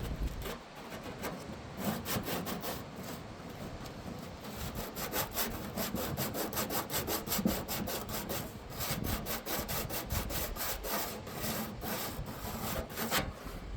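Sandpaper scrubbing rust off a refrigerator evaporator cover in quick back-and-forth strokes, several a second.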